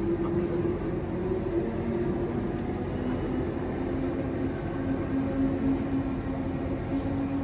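Sydney Trains double-deck electric suburban train pulling out and moving away along the platform: a steady rumble and hum, with a tone that drops in pitch a couple of seconds in.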